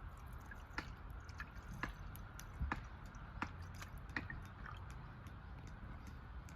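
Wood campfire crackling: irregular sharp pops and snaps, about one or two a second, over a low rumble.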